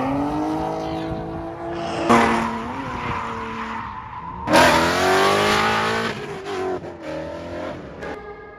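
Drift cars on track, engines revving up and down with tires squealing. The two loudest moments come about two seconds in and again about halfway, and the sound fades toward the end.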